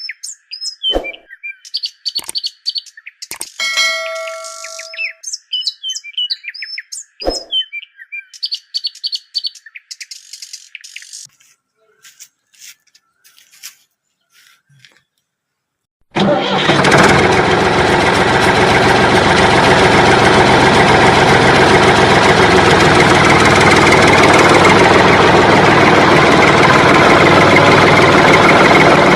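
Bird-like chirping with scattered clicks, then a short hush; about halfway through, a loud engine sound starts abruptly and keeps running steadily.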